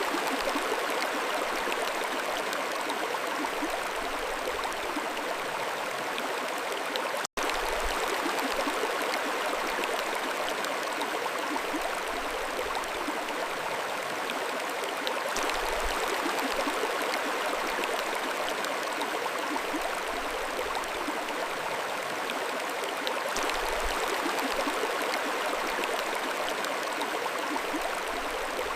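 Mountain stream flowing steadily. The sound cuts out for an instant about seven seconds in.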